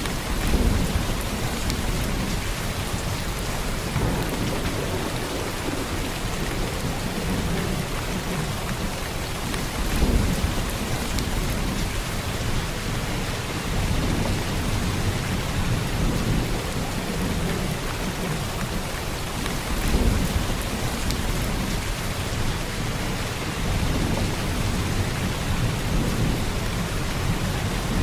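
Heavy rain falling steadily, with low thunder rumbles rolling in every few seconds; the strongest come about half a second in, about ten seconds in and about twenty seconds in.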